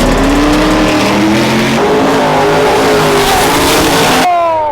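A vehicle doing a burnout: the engine is held at high revs, its pitch climbing slowly, over the loud hiss and squeal of spinning tyres. Near the end the revs fall away.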